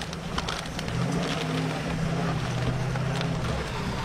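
Vehicle engine running steadily while driving, heard from inside the cab; the hum stops shortly before the end. It sits over the noise of rain and wind, with scattered sharp taps of rain and debris hitting the windshield.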